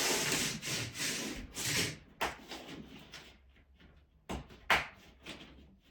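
Heating cable being handled and pressed into a Ditra-Heat membrane: about two seconds of rubbing and rustling, then a few sharp clicks and knocks.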